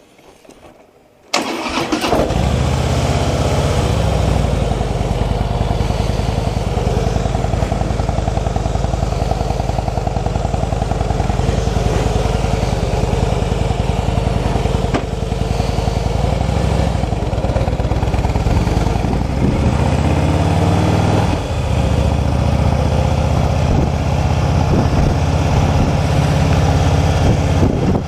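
Motorcycle engine starting about a second in, then idling steadily, with a brief rise in revs about two-thirds of the way through.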